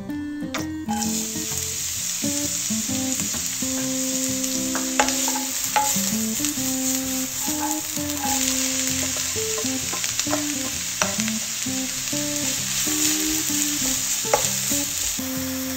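Chopped vegetables sizzling in hot oil in a wok, starting about a second in, stirred with a wooden spoon that clicks and scrapes against the pan now and then. Light acoustic guitar music plays underneath.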